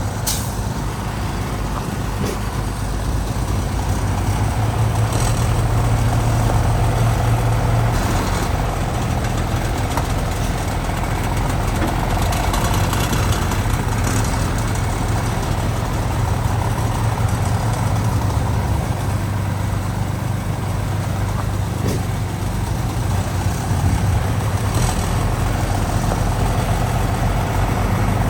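Heavy diesel earthmoving machinery running steadily with a low engine drone, and a few brief knocks.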